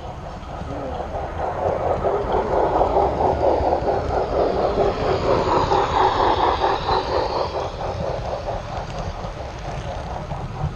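Model train running along its track with a fast, even clatter of wheels over rail joints, getting louder as it passes close and then fading as it moves away.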